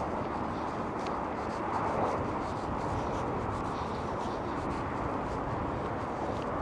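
Steady drone of distant road traffic.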